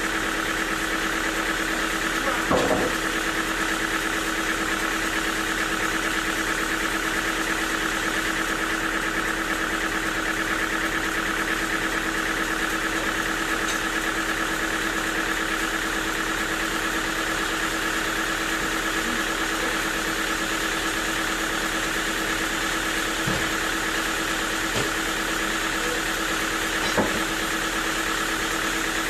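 Sawmill machinery engine running steadily with a constant hum, with a few short knocks, the loudest about two and a half seconds in and another near the end.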